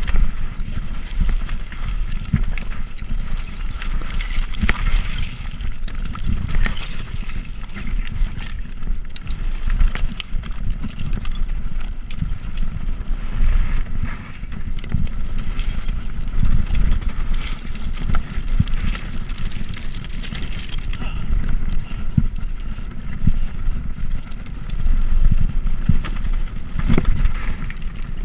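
Riding a bicycle: wind buffeting the microphone in a steady low rumble, with many small clicks and rattles from the bike over the road surface.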